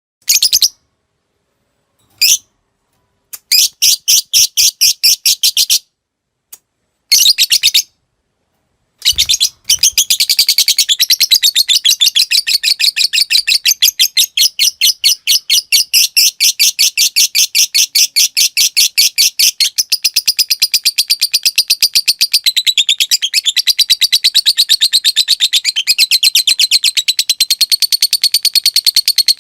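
Lovebird singing: a few short bursts of sharp, rapid chirps, then from about nine seconds in one long unbroken chatter of fast high chirps. This is the long "ngekek" trill bred and trained for in Indonesian fighter lovebirds.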